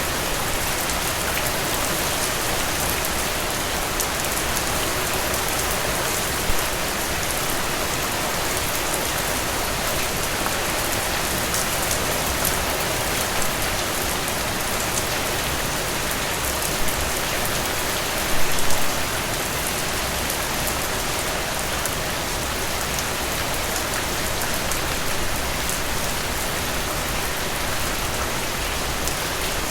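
Steady rain falling, with a few sharper, louder drop hits scattered through it and a short cluster of them about eighteen seconds in.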